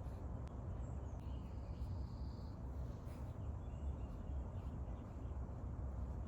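Outdoor nature ambience: faint bird chirps and a brief high, steady buzzing trill about a second in, over a constant low rumble.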